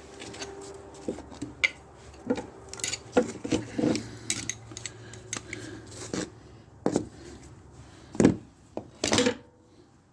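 Metal tools and mower parts clinking and knocking in irregular strikes while being handled, the two loudest knocks near the end.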